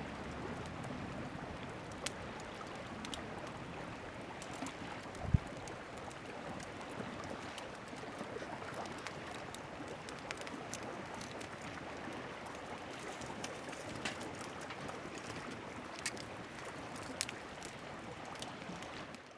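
Steady wash of lake water lapping at the shore, with scattered small clicks and one sharper knock about five seconds in.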